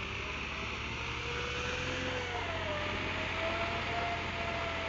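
Tractor engine running steadily, a constant low hum, with a thin wavering tone above it.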